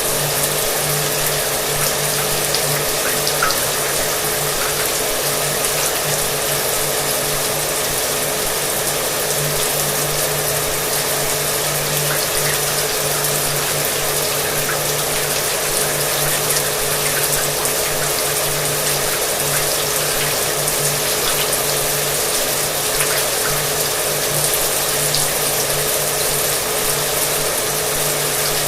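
Shower water spraying and splashing steadily while a hair dryer runs underneath, its motor adding a steady low hum.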